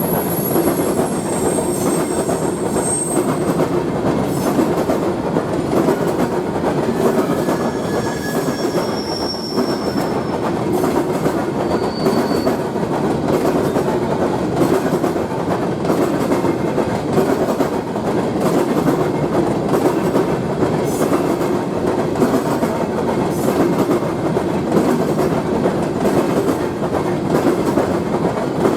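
Train rolling past steadily, its wheels clattering over the rail joints, with a few brief high-pitched wheel squeals in the first dozen seconds.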